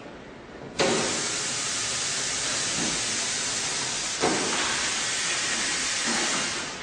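Compressed air hissing hard and steadily on a heavy tyre-changing machine. It starts abruptly about a second in, gives a fresh burst about four seconds in, and dies away near the end.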